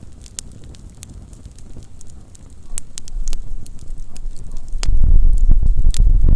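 Small campfire crackling, with many sharp irregular pops and snaps. A low rumble builds from about three seconds in and becomes the loudest sound in the second half.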